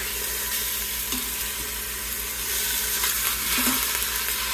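Chicken sizzling in hot olive oil in an Instant Pot on the sauté setting, with a spoon stirring it in the pot.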